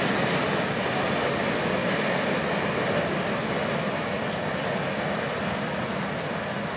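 Empty freight wagons of a goods train rolling past on the rails, a steady rolling noise of wheels on track that eases slightly in the second half.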